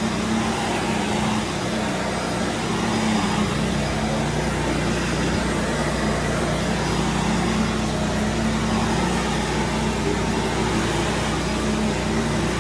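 Vacuum cleaner running steadily on carpet, a constant motor hum under a rushing hiss.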